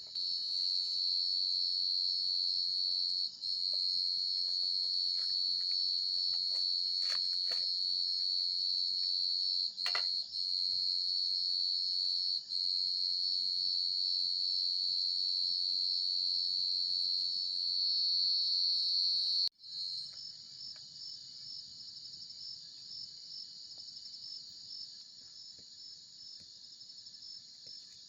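Crickets trilling in a steady, high-pitched chorus that cuts out for a moment about twenty seconds in and then carries on more quietly. A few sharp clicks are heard around seven and ten seconds in.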